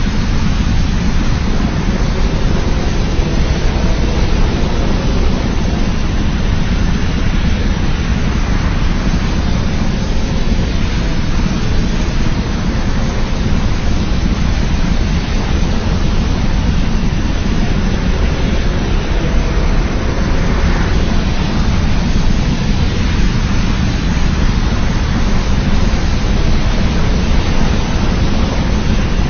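Steady, loud, deep rumbling noise with a hiss over it, unchanging throughout and with no pitched call or roar in it: a custom ambient rumble effect for a giant monster.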